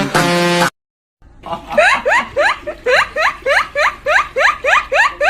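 Electronic dance music that cuts off, then, after a brief silence, a voice giving a rapid run of short rising squeaks, about three a second, each sliding sharply upward in pitch.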